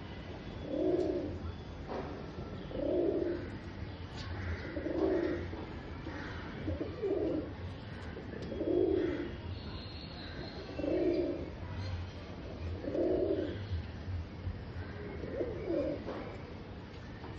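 Domestic pigeon cooing in courtship: a low, rolling coo repeated about every two seconds, eight times.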